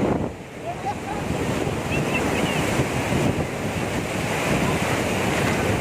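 Sea surf washing and breaking on a beach, a steady rushing noise with wind buffeting the microphone. Faint voices are heard briefly about a second and two seconds in.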